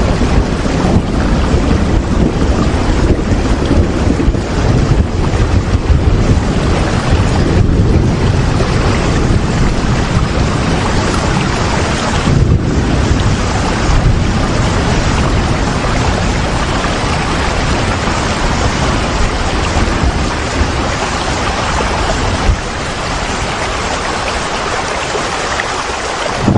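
Steady heavy rain, a dense even hiss with a deep rumble underneath. It eases slightly near the end.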